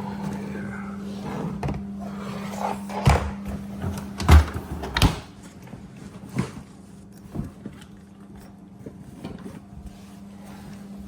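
A refrigerator's plastic kick plate being pulled hard off the bottom front of the cabinet: a series of knocks and clacks, the loudest about three to five seconds in, over a steady low hum.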